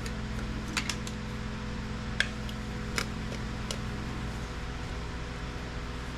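Scattered light clicks and taps of small metal and plastic parts being handled while a piece of IT equipment is taken apart for scrap, over a steady low hum. The sharpest click comes about two seconds in.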